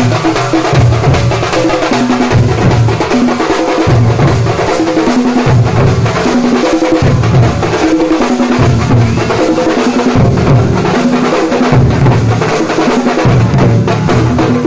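Nasik dhol drum troupe playing loud, dense drumming, with a deep drum pattern repeating in phrases of about one and a half seconds.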